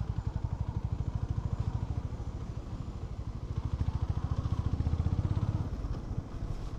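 Honda H'ness CB350's single-cylinder engine running at low revs, a rapid, even exhaust beat that swells for a couple of seconds midway and then eases off again.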